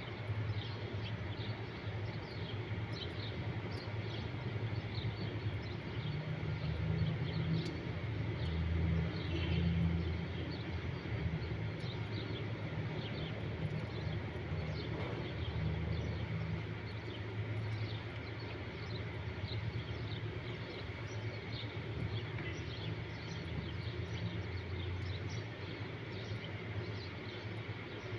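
Outdoor ambience: many short high chirps, scattered all through, over a steady low rumble that swells for several seconds about a third of the way in.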